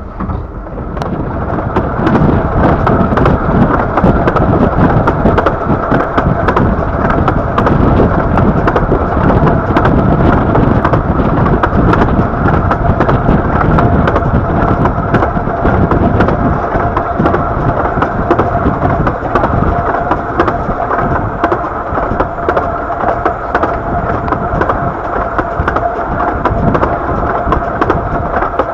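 15-inch-gauge Bure Valley Railway train running at speed, heard from on board: a steady rumble of wheels on the rails with many fine clicks and a steady ringing tone over it, with wind buffeting the microphone. It grows louder about a second and a half in and then holds steady.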